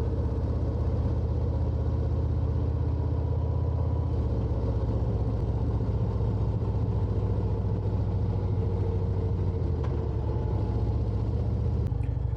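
Harley-Davidson Road Glide's V-twin engine running steadily at cruising speed, heard from the bike, under an even rush of wind and road noise. The engine note shifts slightly about four seconds in.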